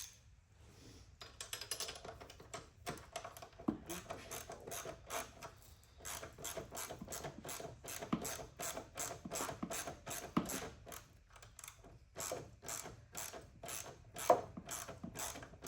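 Ratchet wrench clicking in quick, even strokes, about three clicks a second, with short pauses about six and twelve seconds in, as it turns a bolt while a front shock is fitted to a Honda TRX90 ATV.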